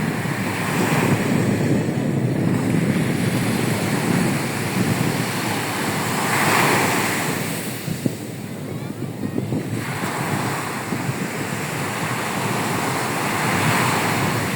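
Rough, stormy sea surf breaking and washing up the beach, with waves surging in several times, and strong wind buffeting the microphone.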